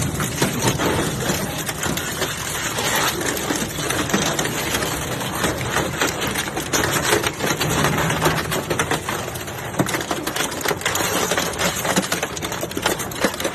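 Industrial metal shredder tearing through scrap metal: a dense, irregular crunching and clanking over the steady hum of the machine's drive.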